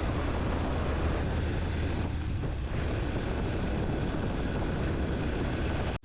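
Motorcycle on the move: steady engine noise mixed with wind rushing over the microphone while riding along a road.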